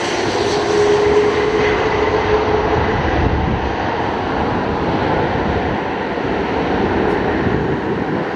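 Jet airliner's engines running loud as it passes close, a steady roar whose highest hiss slowly fades.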